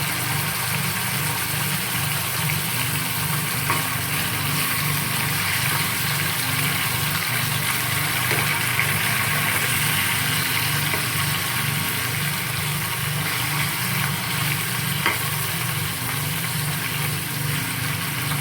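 Boneless chicken pieces sizzling steadily as they sauté in ghee with chopped garlic, with a few light clicks from stirring.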